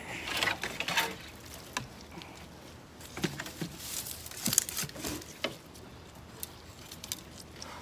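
Hands digging through potting soil in a container: irregular rustling and scraping with small clicks and knocks. It is busiest in the first second and again around four to five seconds in.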